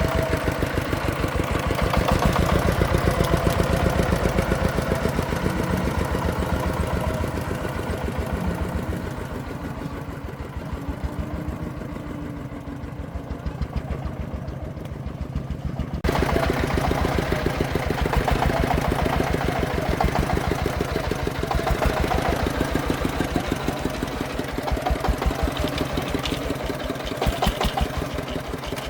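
Single-cylinder diesel engine of a công nông farm truck running with a fast, even beat. It drops quieter for several seconds midway, then comes back louder abruptly about sixteen seconds in.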